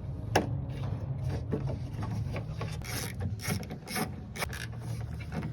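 Irregular sharp clicks and clacks of tailgate handle hardware being worked by hand, as a latch-rod clip is rotated and the rod released, over a steady low hum. One loud click comes early, and a quick run of clicks follows past the middle.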